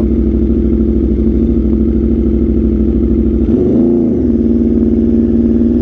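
Aprilia RSV4's V4 engine running through an SC-Project CRT aftermarket exhaust while riding, with one brief rev that rises and falls about three and a half seconds in.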